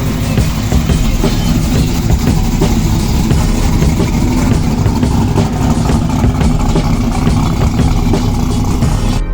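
A car or truck engine running loudly at idle and revving, with a steady low rumble.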